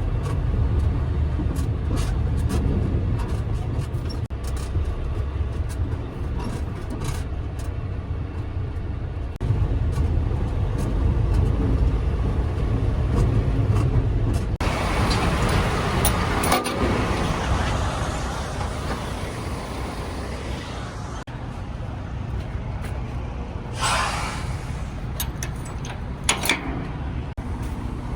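Semi-truck diesel engine running with a steady low rumble and scattered clicks. A broad hiss starts suddenly about halfway through and lasts several seconds, and a shorter hiss comes a few seconds before the end.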